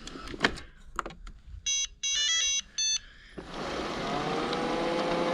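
Robot vacuum cleaner starting up: a couple of clicks, then a short run of electronic beeps. About three and a half seconds in, its motor starts and runs steadily with a whine.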